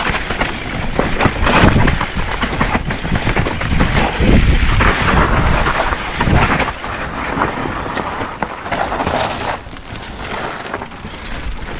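Specialized Stumpjumper mountain bike ridden hard down a rough rocky trail: tyres rumbling over rock and dirt with a constant clatter of knocks and rattles from the bike, and wind buffeting the action camera's microphone.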